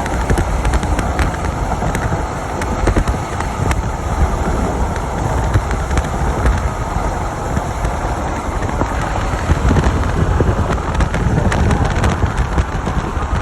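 A vehicle driving at speed: a loud, steady rumble of road and wind noise.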